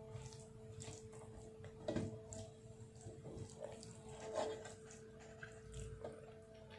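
Wet chewing and mouth-smacking from eating by hand, with scattered soft clicks and a few louder smacks about two seconds in and near the middle, over a steady faint hum.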